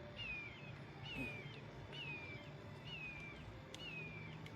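A bird calling over and over: a short, high chirp that falls in pitch, about once a second, over a faint low hum.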